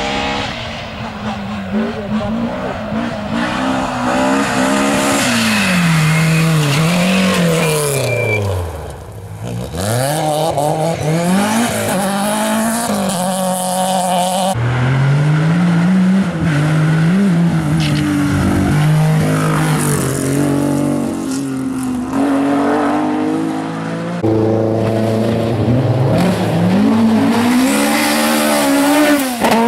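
Historic rally car engines revving hard and changing gear, the pitch climbing and dropping again and again, with a brief drop and rise like a car passing about nine seconds in. The sound changes abruptly twice, as a different car takes over.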